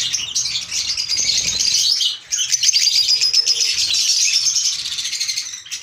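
Pet lovebirds chattering, a dense, continuous stream of high-pitched chirps with a brief pause about two seconds in.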